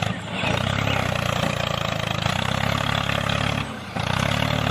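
Tractor-like engine running steadily at a low, even pitch, broken by two short dips in level: one just after the start and one shortly before the end.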